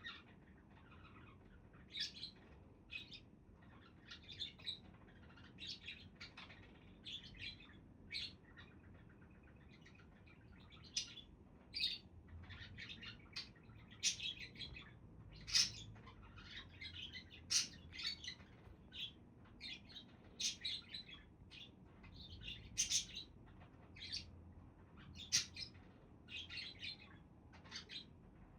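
Budgerigars chirping: short, high chirps in quick, irregular runs, with a louder chirp every second or so.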